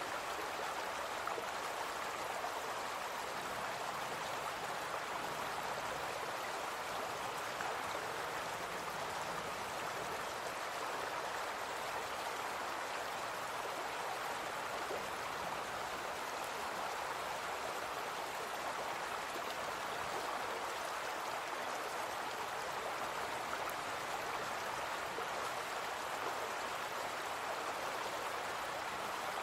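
A small brook flowing, a steady rush of water with no breaks or changes.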